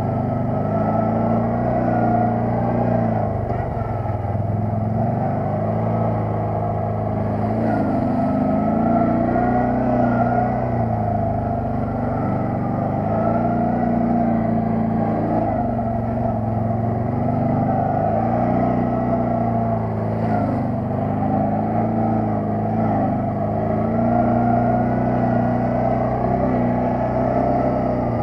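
Quad bike (ATV) engine running under load, its revs rising and falling every few seconds as the throttle changes.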